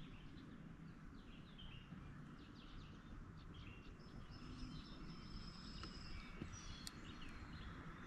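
Birds chirping and calling faintly, with short chirps throughout and one longer held high note in the middle, over a steady low background noise.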